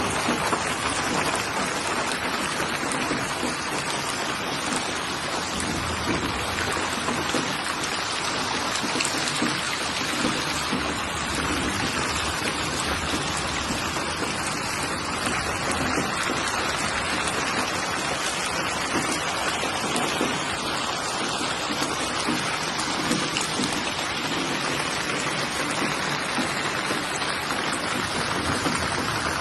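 Steady rainfall, an even hiss of drops on a surface.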